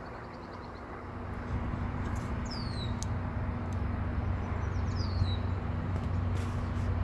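A low, steady engine hum from an approaching train grows louder from about a second and a half in. Over it, a bird gives a short falling whistle twice, about two and a half seconds apart.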